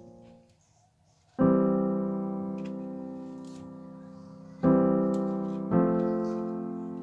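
Background piano music: the previous passage fades out, and after about a second of silence sustained piano chords are struck three times, each ringing and slowly dying away.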